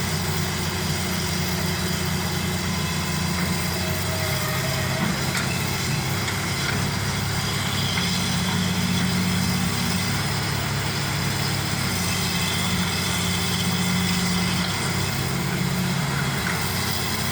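Excavator's diesel engine running steadily as the machine digs into a hillside, its note shifting a little now and then.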